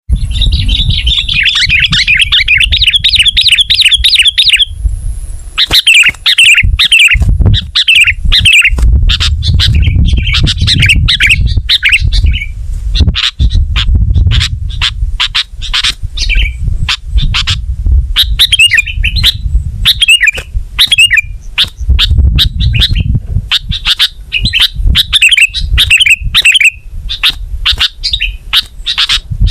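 Sooty-headed bulbul (kutilang) singing: bursts of rapid chattering chirps, the first held for about four and a half seconds, then shorter phrases repeated one after another. A steady low rumble and sharp clicks run underneath.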